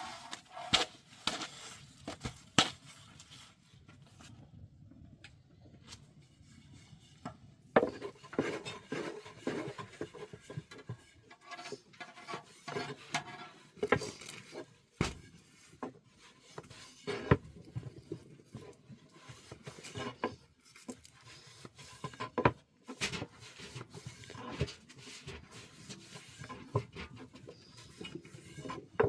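Irregular knocks, clinks and scraping of hands-on cooking work with utensils and wood, with a quieter lull a few seconds in and a few sharper knocks later on.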